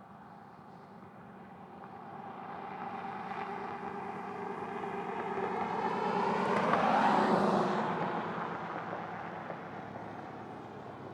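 An aircraft flying low overhead. Its drone grows louder to a peak about seven seconds in, drops in pitch as it passes, then fades away.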